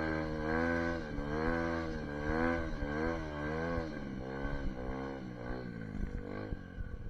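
An SSR 150 dirt bike's single-cylinder engine running, its pitch rising and falling about once a second as the throttle opens and closes. It drops off and becomes uneven near the end.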